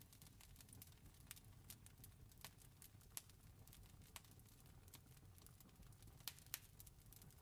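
Faint crackling campfire: irregular wood pops and snaps, a few louder ones near the end, over a low steady rumble of the fire.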